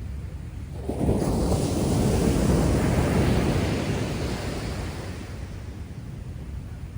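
Heavy storm surf: a big wave breaks about a second in with a sudden rush, and its wash fades over the next few seconds, over a steady low rumble of the sea.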